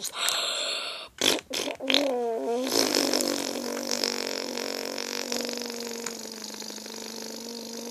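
A child making fart noises with the mouth: a few short vocal squeaks, then a long buzzing raspberry lasting about five seconds that slowly fades.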